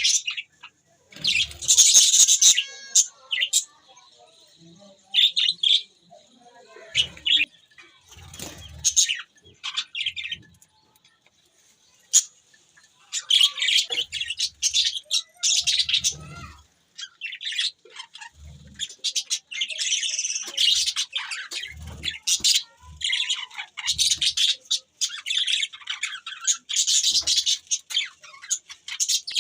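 Budgerigars chirping and chattering, in scattered bursts at first and almost without pause in the second half, with occasional short low thumps.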